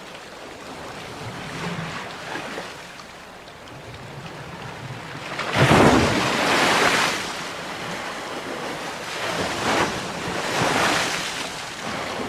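Sea waves breaking: a low wash of surf, then a large wave crashes about halfway through, followed by two smaller surges near the end.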